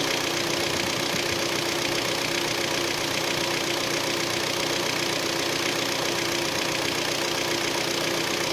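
Hyundai G4KD 2.0-litre four-cylinder petrol engine idling steadily with a knock from within the engine, the sign of scored cylinders 2, 3 and 4. The engine is cold after standing outdoors for 12 hours.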